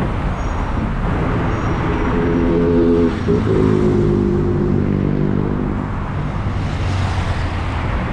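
Road traffic: a motor vehicle's engine running close by with a steady hum that shifts pitch slightly about three seconds in, over continuous street noise.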